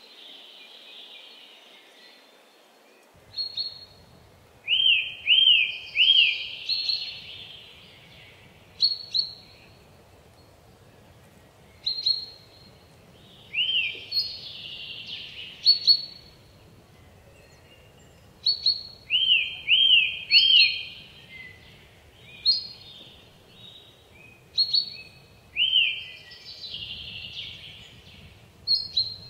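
A small songbird singing the same high phrase every few seconds: two or three quick looping notes run into a harsher, buzzy note, with single sharp high notes in between. A faint low rumble sits under it from about three seconds in.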